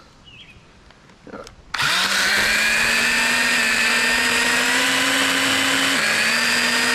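Echo electric pruning chainsaw starting up suddenly about two seconds in and running at full speed with a steady high whine as it cuts. Its pitch drops slightly near the end.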